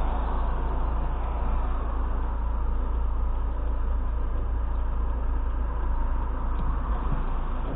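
Car engine idling while the car stands still, heard from inside the cabin: a steady low rumble.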